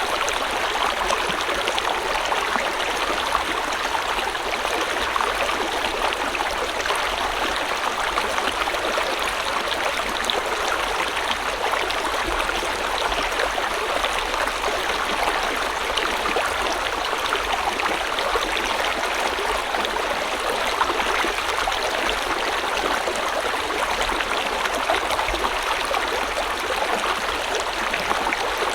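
River water flowing over rocks, a steady rushing and gurgling with no let-up.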